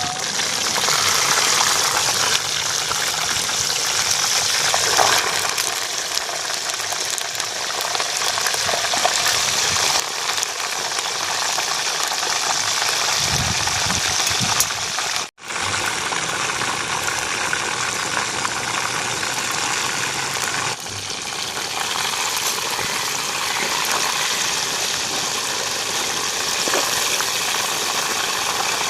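Banana-leaf-wrapped chicken deep-frying in hot oil: a steady, loud sizzle, with a brief break about fifteen seconds in.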